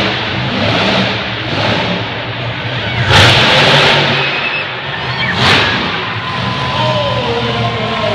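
Monster truck engine revving hard under a loud, steady arena din, with big surges about three seconds in and again at about five and a half seconds.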